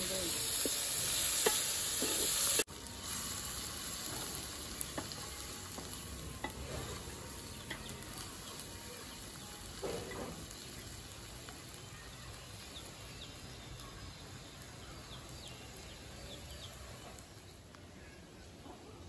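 Chopped onions, tomatoes and green chillies sizzling as they fry in a metal pot, with a metal spatula stirring and scraping through them. After about two and a half seconds the sound drops sharply to a fainter sizzle with scattered light ticks that slowly fades.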